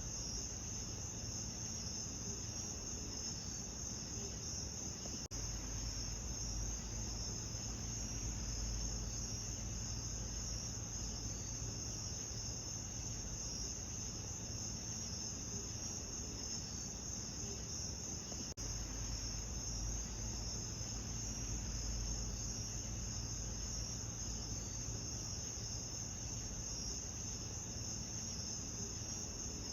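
A dense, steady chorus of crickets chirping at night, over a low steady rumble. The sound dips briefly twice.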